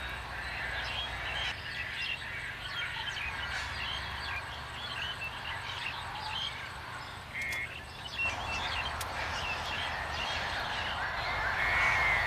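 Chorus of wild birds: many short, high chirps overlapping throughout, with a louder, longer call coming in near the end.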